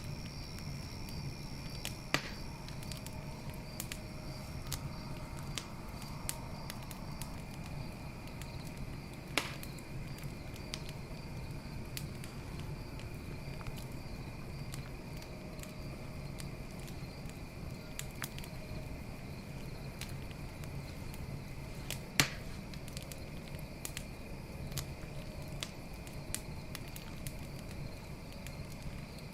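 Campfire crackling, wood snapping in many small sharp pops, three of them much louder. Underneath run a steady low hiss of the fire and a continuous high trilling of night insects.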